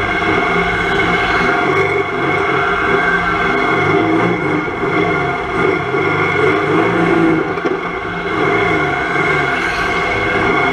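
Volvo 240 estate banger-racing car's engine running on track, heard from inside the stripped cabin, its note rising and falling with the throttle and easing off briefly near the end.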